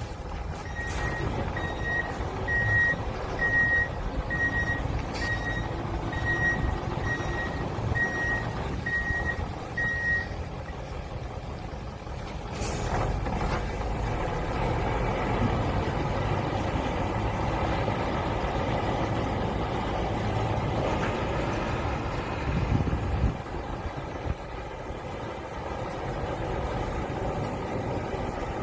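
Eight-cylinder diesel engine of a Hyundai 25-ton 10x4 cargo truck running while its reversing alarm beeps about twice a second for the first ten seconds, as the truck backs up. A short hiss about 13 seconds in, then the engine runs on steadily.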